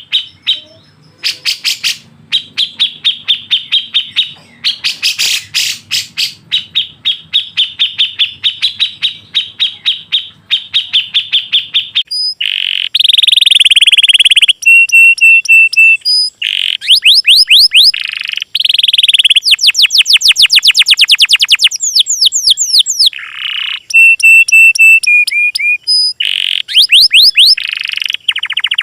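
Recorded songbird song played as a training track. First a fast, even run of repeated chip notes, about four to five a second. About twelve seconds in it cuts to louder, varied song of quick whistled sweeps, rapid trills and short high phrases.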